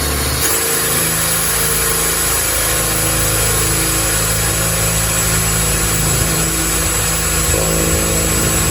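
Power drill running steadily as it bores a small starter divot into a plant pot for a drainage hole.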